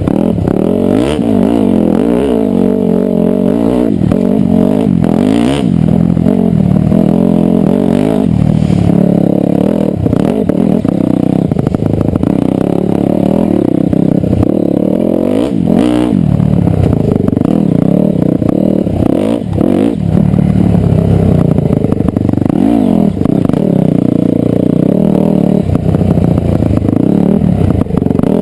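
Dirt bike engine revving up and down again and again as the throttle is opened and closed, with scattered clatter and knocks from the bike over rough ground.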